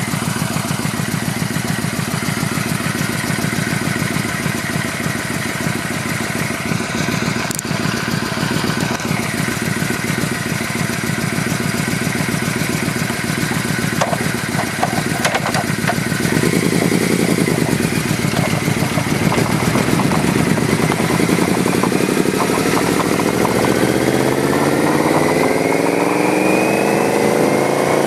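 Motorcycle engine running while riding, then revving up steadily through the last third as it accelerates, its pitch climbing, before dropping back near the end.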